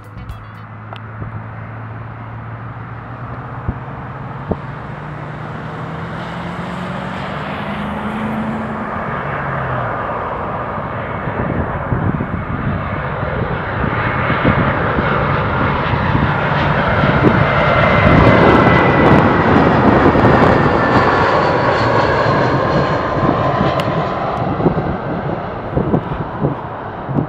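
Airbus A320-200 airliner passing low on its landing approach: the jet engines' rumble and fan whine grow steadily louder, peak about two-thirds of the way through, then start to fade as the whine drops in pitch.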